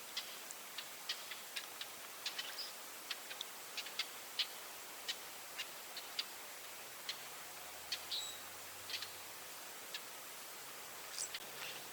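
Quiet outdoor ambience: sparse, irregular sharp ticks, roughly one or two a second, over a faint steady hiss, with a short high chirp about eight seconds in and another near the end.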